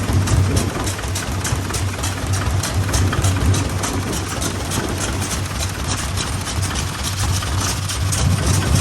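Vintage Japanese stationary engine (hatsudōki) running steadily, with an even firing beat of about five strokes a second.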